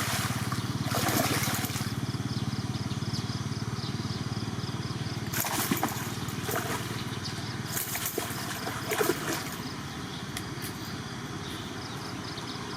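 A small engine drones steadily. Short splashing bursts come about five and a half seconds in and again around eight to nine seconds in, as a hooked snakehead thrashes at the surface.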